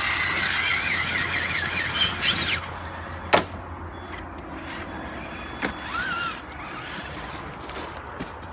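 Whine from an RC truck's electric motor and drivetrain, rising and wavering in pitch as the throttle is worked, with a sharp click about three seconds in and a shorter whine near the end.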